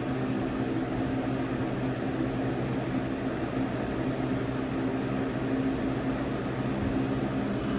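Lasko Weather-Shield model 3720 box fan running steadily, an even rush of blown air over a steady motor hum, mixed with a loud room air conditioner running.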